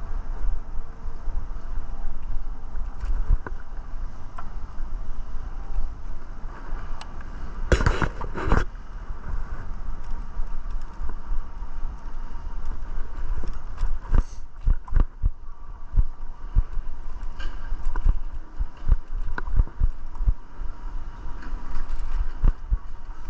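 Riding noise from a Rad Power RadMini e-bike: steady wind rumble on the microphone, with a louder rush about eight seconds in and frequent short knocks and rattles from the bike over the pavement in the second half.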